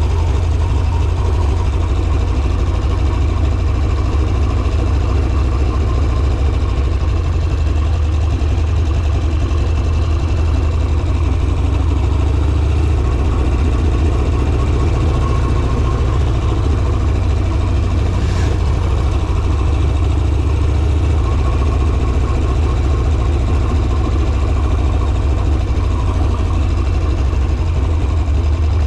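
Harley-Davidson Sportster V-twin engine running steadily under way at an even pace, with a deep, unchanging exhaust note.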